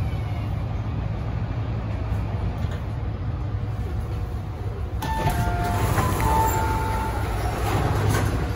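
MTR Tung Chung line A-train electric multiple unit, a steady low rumble heard on board. About five seconds in, the sound brightens and a few short high tones come and go.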